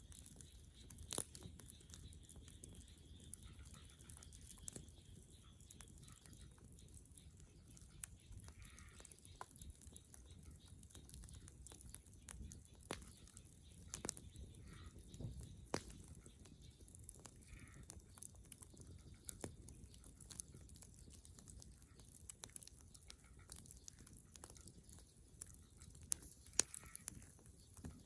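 A fire of dead branches burning quietly, with irregular sharp crackles and pops from the wood over a low rumble of the flames. A few faint short calls are heard now and then.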